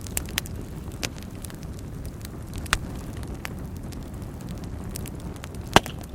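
Fire burning in a fireplace: a steady low rumble of flames with scattered crackles and pops, the loudest pop near the end.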